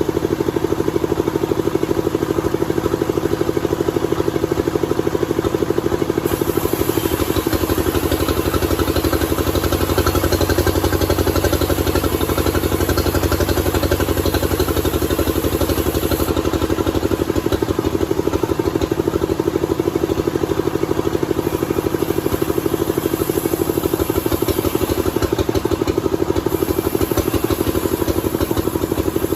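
Sawmill machinery running steadily with an engine-like drone and a low, rapid pulse. A high hiss joins about six seconds in, drops away about ten seconds later, and comes back near the end.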